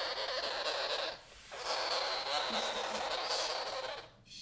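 Angry sugar glider crabbing: a loud, harsh, buzzing rasp, its defensive warning noise. It breaks off briefly about a second in, starts again, and stops just before the end with one short last burst.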